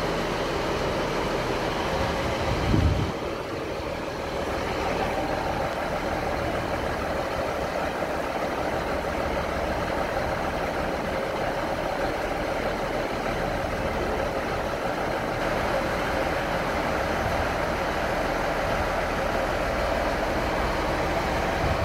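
A train standing at a station with its engine running steadily, a low hum under a steady noise. There is a brief low thump about three seconds in.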